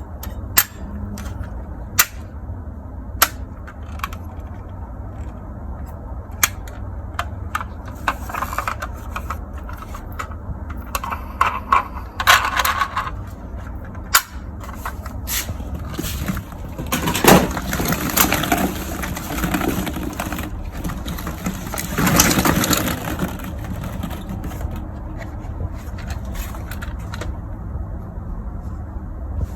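Plastic toys being handled: sharp clicks and knocks, with a few longer rustling, scraping stretches, over a steady low hum.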